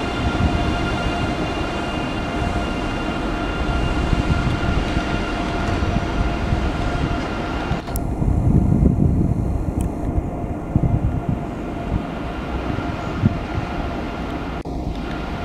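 Train running past on rails: a steady low rumble with a steady whine over it. The sound changes abruptly about eight seconds in, the higher part dropping away while the rumble carries on.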